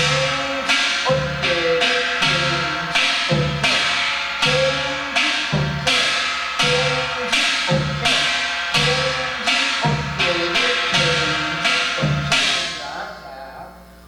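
Yanggojang playing of the Gyeongsang-do jajinmori rhythm, slowly: a buk barrel drum and a kkwaenggwari small gong struck in an even run of strokes, under a second apart, the gong ringing over the drum thumps. Near the end the last stroke rings out and fades.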